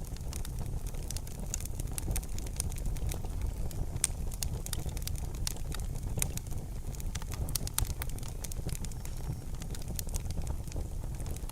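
Wood fire in a fireplace crackling, with frequent irregular sharp pops and snaps over a low steady rumble of burning.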